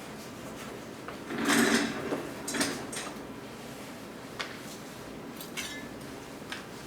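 Hand tools handled on a workbench: a loud sliding scrape about one and a half seconds in, a shorter scrape near three seconds, then a few light clicks and taps.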